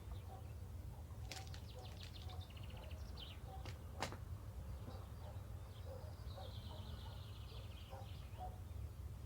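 Birds chirping and trilling: several quick high trills and sharp chirps, with one long falling trill in the second half, over a steady low hum.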